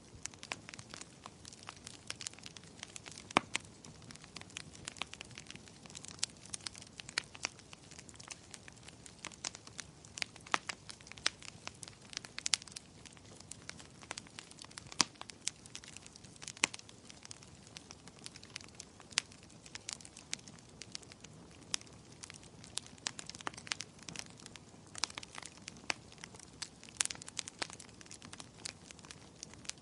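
Wood fire crackling in a fireplace: irregular sharp pops and snaps, several a second at times, over a soft low hiss of burning.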